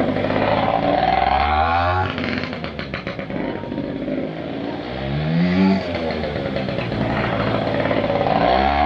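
Dirt bike engine being ridden, revving up and falling back several times as the throttle is opened and closed.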